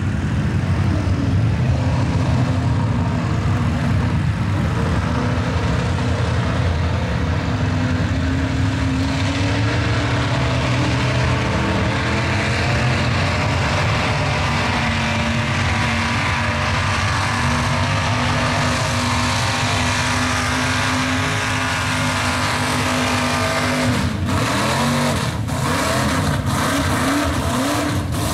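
Mud truck engines running loud and steady at high revs, with the pitch swinging up and down several times near the end.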